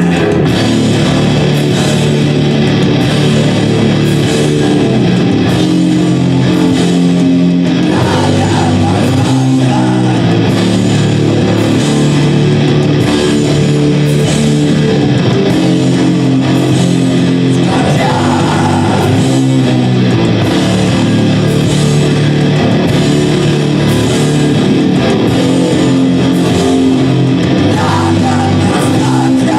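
A live rock band playing loudly, with guitars and drums keeping a steady beat.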